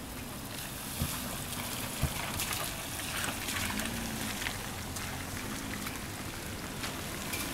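Steady rain, with water trickling and scattered drops ticking on nearby surfaces.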